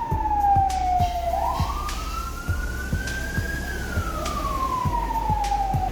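A siren wailing, its single tone sliding slowly down, rising again about a second and a half in, then falling again near the end. Under it is a steady low hum with soft regular knocks about twice a second.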